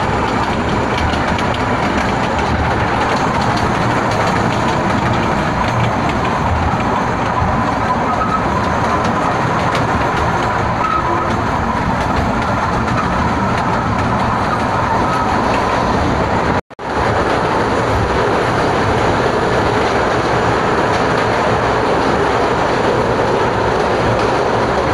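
Kurobe Gorge Railway narrow-gauge trolley train running, heard from inside its open-sided carriage: a steady rumble of wheels on the rails. The sound cuts out completely for a moment about two-thirds of the way through.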